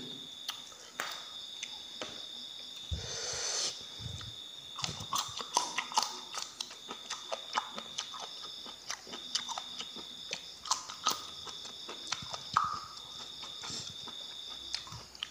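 Close-miked eating: biting and chewing raw long beans and fish with rice, a run of small crisp crunches and mouth clicks. A steady high insect trill goes on behind it.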